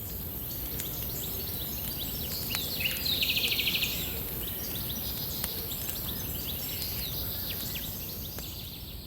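Birds chirping and calling over a steady outdoor background hiss, with a louder rapid trill about three seconds in.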